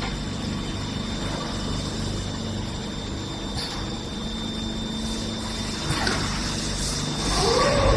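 Servo-controlled hot plate welding machine running with a steady low hum and a thin high whine, with a few mechanical clicks about six seconds in and a louder stretch near the end.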